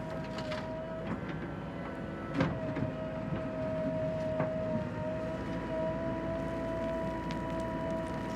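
Tractor engine running steadily, a low rumble with a steady high whine over it, and a sharp clunk about two and a half seconds in.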